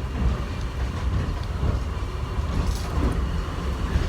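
Airport subway train running at speed, heard from inside the car: a steady low rumble from the car and its wheels on the track.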